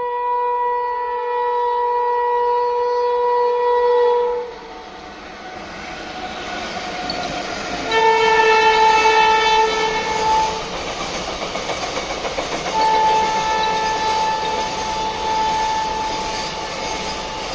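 Freight locomotive's horn sounding three long blasts, the last one fainter, as a container freight train runs past close by. Between and under the blasts the wagons' wheels clatter steadily over the rails.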